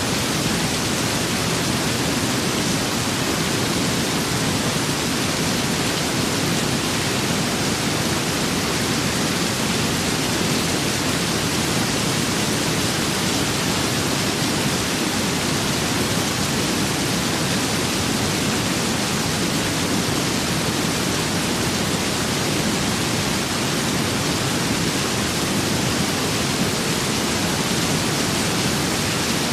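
Steady rain with wind: an even, unbroken hiss with a low rumble, no single drops or gusts standing out.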